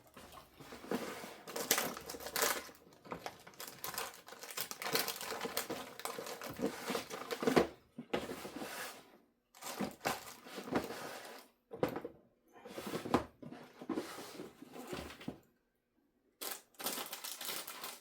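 Rummaging and handling of small objects: irregular rustling, crinkling and light clatter, broken by short pauses and one brief silence near the end.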